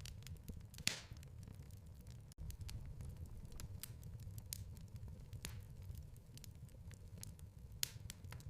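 Wood fire crackling in a fireplace: a steady low rumble of burning with scattered sharp pops and snaps, two louder pops about a second in and near the end. The sound cuts out for an instant about two and a half seconds in.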